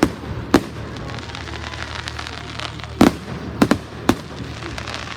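Fireworks going off: a sharp bang about half a second in, then a quick cluster of bangs from about three to four seconds in, over a steady background of noise.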